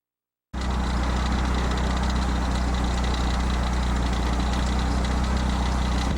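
Steady, unchanging engine drone with a constant low hum, starting abruptly about half a second in.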